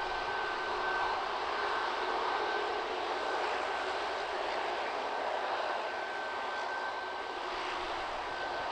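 Jet airliner engine noise: a steady rush with a thin, high whine held throughout.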